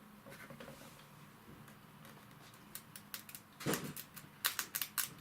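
Sharp irregular snapping clicks of a bare 12-volt lead sparking at the terminals of a BATE 24 V 5.2 kW truck starter motor, which does not turn: the motor is dead. The clicks begin about halfway through, with one fuller knock, and come thick and fast near the end.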